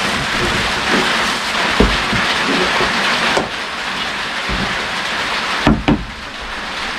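Steady rain falling, with a few short knocks, the loudest just before the six-second mark.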